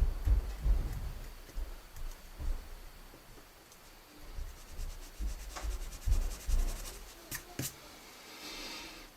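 Eraser rubbing back and forth on drawing paper to lift out highlights from graphite shading, with dull bumps of the hand on the paper and desk, and two sharp clicks about seven and a half seconds in.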